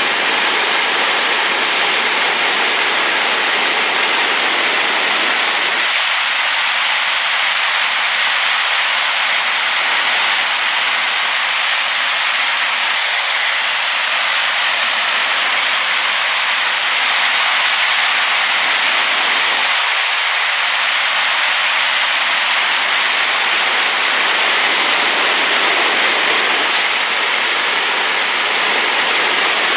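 A powerful waterfall swollen by rain, its water falling in a steady, dense rush with no break or change.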